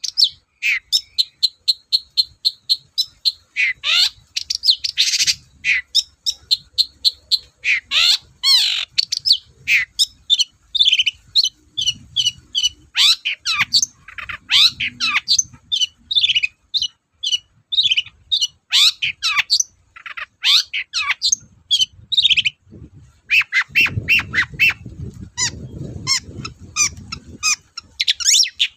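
Long-tailed shrike (cendet) singing loudly and without pause. Its song is a rapid, varied run of short chattering and whistled notes, broken up by harsh squawks.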